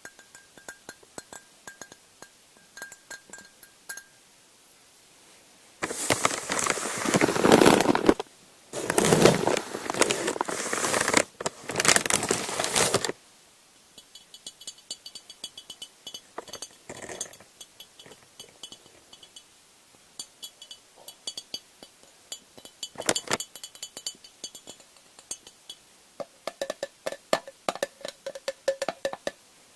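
Quick, light tapping on small lids, each tap with a short clinking ring. About six seconds in, this gives way to about seven seconds of loud crinkling of a crinkly sheet, in three stretches. The tapping then resumes.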